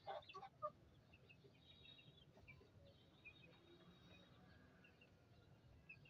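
Near silence with a few faint, short calls from caged birds scattered through.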